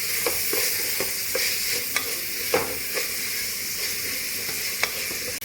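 Sliced onions sizzling in hot coconut oil in a pan, with a spatula clicking and scraping against the pan every so often as they are stirred.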